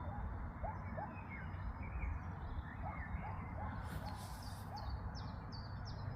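Several birds calling in short, quick chirps that sweep downward, some lower-pitched and some higher, the higher ones coming thicker in the second half, over a steady low rumble.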